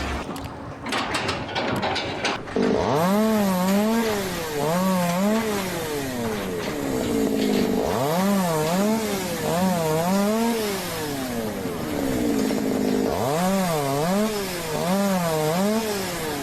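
A small engine, such as a chainsaw's, revved up three times: each time the pitch climbs quickly, wavers up and down while held high, then falls back. A few sharp knocks come in the first two seconds.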